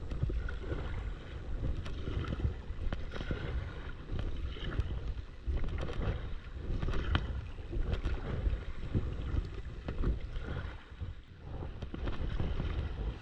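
Kayak paddling: paddle blades dipping and splashing in the water in repeated strokes, with wind buffeting the microphone.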